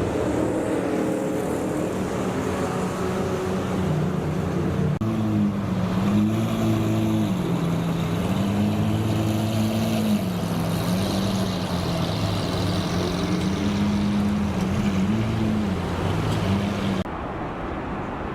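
Nissan R32 Skyline GT-R's twin-turbo straight-six engine running under way, its pitch rising and falling repeatedly as the revs go up and down. About 17 seconds in the sound drops and turns duller.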